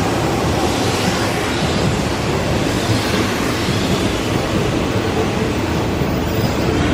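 Hanshin 8000 series electric train running through the station at speed without stopping: a loud, steady noise of wheels and running gear.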